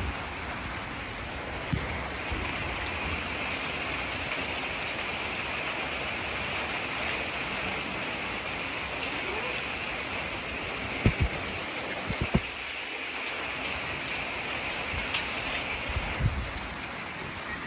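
Steady rain falling on wet stone pavers and a patio roof, an even hiss of pattering drops. A few brief low knocks come about eleven to twelve seconds in.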